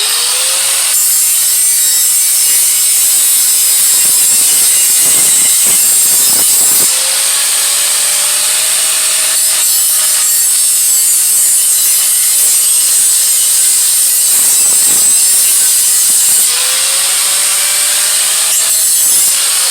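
Steel exhaust head pipe being abraded in a steady, high rasping grind, done to clean up the metal so the joint can be squeezed tighter. The rasp changes character a few times, about a second in, around seven seconds and near the end.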